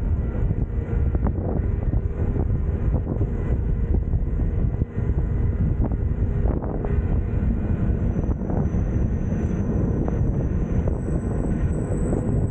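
Glacier Express train running along the line: a steady rumble of wheels and running gear on the track, with occasional faint clicks. A faint high whine joins in after about eight seconds.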